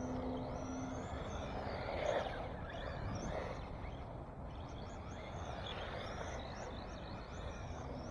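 Songbirds chirping, a continuous run of short rising-and-falling high calls, over steady low background noise. A faint steady hum stops about a second in.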